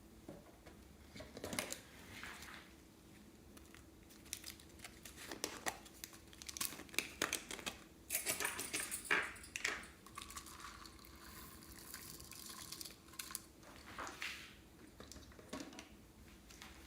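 Plastic piping bags and slime being handled: irregular crinkling and clicking, with a steady hiss for a few seconds in the middle.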